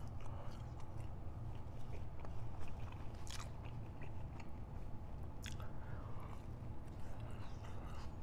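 Close-miked chewing of a soft breadstick dipped in marinara sauce, with wet mouth sounds and a couple of sharp clicks about three and five and a half seconds in.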